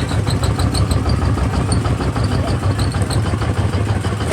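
Kubota RT140 DI single-cylinder diesel engine running steadily with a rapid, even chugging.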